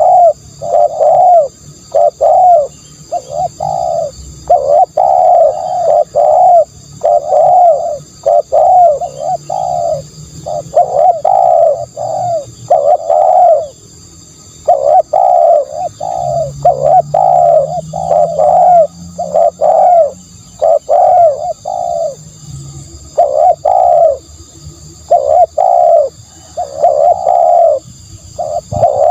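Spotted dove cooing: short, low coo notes repeated in quick, nearly continuous series, with a brief pause about halfway through.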